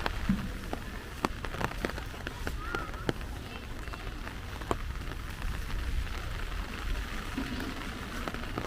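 Rain falling, with single drops landing as sharp ticks scattered throughout, over a steady low rumble.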